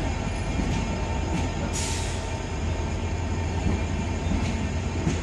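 Passenger train's coaches rolling past at a steady pace, giving a continuous low rumble of wheels on rail with a few sharp clicks. A brief hiss comes about two seconds in.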